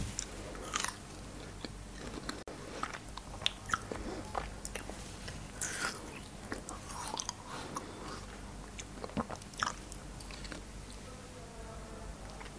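Close-miked biting and chewing of frozen cherries: irregular icy crunches and crackles, with several sharper bites scattered through.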